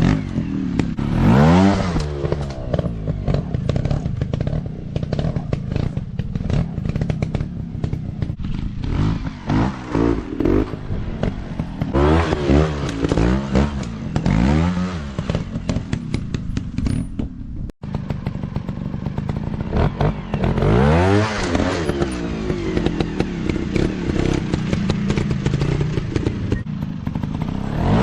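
Dirt-bike engines revving on an off-road practice track, their pitch rising and falling over and over as the bikes accelerate and back off, with clattering from the machines.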